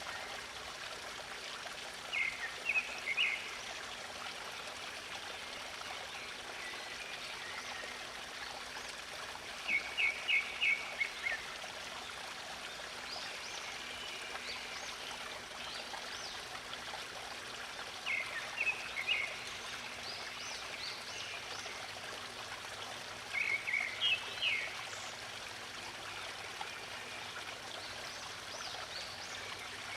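A stream running steadily, with a songbird singing a short phrase of several quick notes four times, about every seven or eight seconds.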